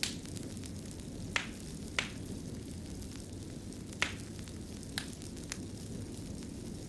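Wood fire in a stone fireplace burning with a steady low rumble, and sharp crackles and pops every second or so.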